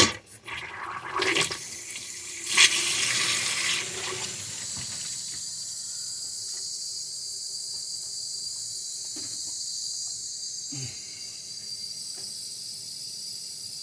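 Water from an opened shutoff valve running out through a supply line, a steady hiss after a few knocks and a louder rush in the first few seconds as it is turned on. It is being run to find out which shutoff carries the hot water.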